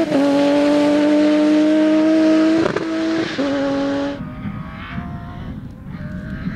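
Rally car engine held at high revs, its pitch steady and slowly rising, with two brief dips a little past halfway as the driver lifts or shifts gear. About two-thirds in, the sound changes suddenly to a quieter, more distant engine.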